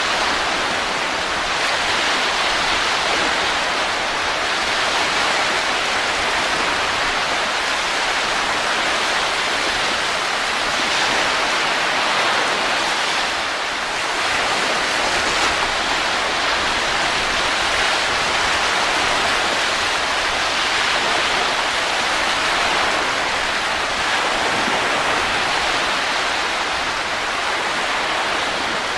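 Wind sound for sleep: a steady, even rushing of wind noise with slight, slow swells in strength.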